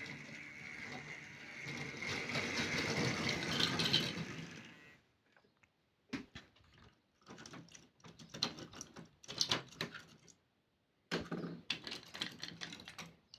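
A small model railway locomotive running with a steady motor-and-gear whine that grows louder, then stops about five seconds in. Scattered light clicks and taps of small model rolling stock being handled follow.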